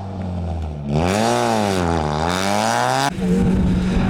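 Rally car engine revving, its pitch climbing and dropping twice as the driver accelerates and lifts or shifts. About three seconds in, it switches abruptly to a steady, unchanging engine note.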